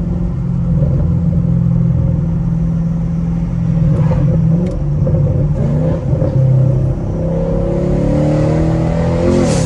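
Straight-piped Camaro SS V8 exhaust while driving: a steady drone at cruise, then the engine pitch climbs for about two seconds near the end as the car accelerates.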